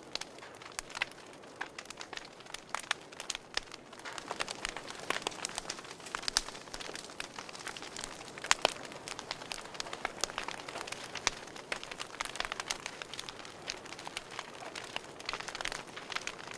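Wood fire burning in a fireplace, crackling steadily with many small irregular pops and a few louder snaps over a soft hiss.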